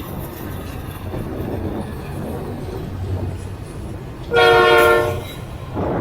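Diesel freight locomotive air horn sounding one short blast of just under a second, a chord of several steady tones, about four seconds in. Underneath it is a steady low rumble of the train with wind noise.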